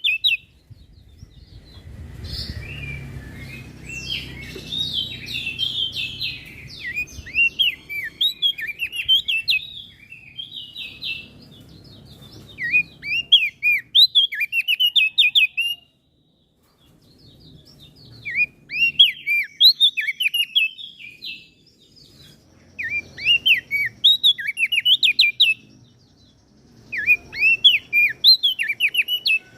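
Small songbird singing rapid, chirping phrases in bursts a few seconds long, with short pauses between them. A low rumble runs under the first few seconds, and the sound drops out completely for about a second midway.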